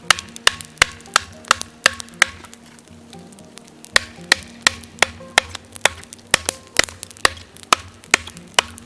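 A quick, fairly even run of sharp wooden knocks, about two to three a second, over faint background music.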